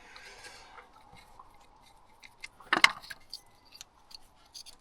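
Hand tools on the engine: a socket wrench clicking and small metal clinks as a part is tightened, with one louder knock about three seconds in.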